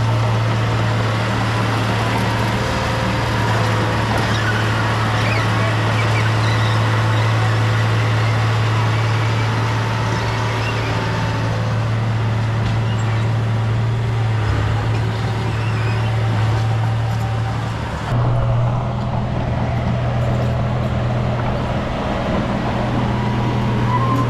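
Bulldozer's diesel engine running steadily with a low, even hum; its note shifts abruptly about eighteen seconds in.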